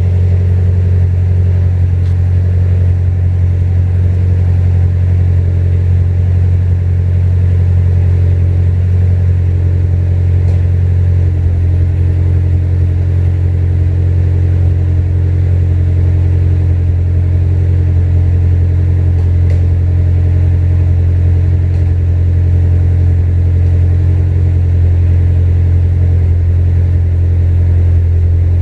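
Exhaust note of a built, supercharged Acura TSX through a J's Racing full titanium exhaust, the engine running steadily at a constant speed. Its tone shifts slightly about ten seconds in.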